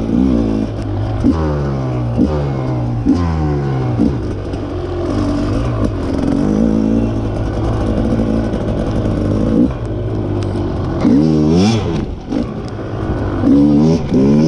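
Rieju MR300 two-stroke enduro dirt bike engine revving under riding, its pitch climbing and dropping again and again as it pulls and changes gear, with a sharp rev about eleven seconds in.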